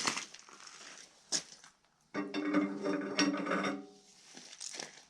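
Cordless impact wrench hammering in a burst of under two seconds on a stuck fastener, which its power is not enough to free, with metallic clinks of the tool against the fitting before and after.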